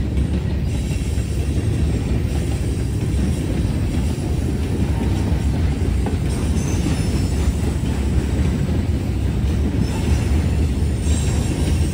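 Norfolk Southern freight train NS 174 rolling past close by: a steady, loud noise of wheels on rail with no break.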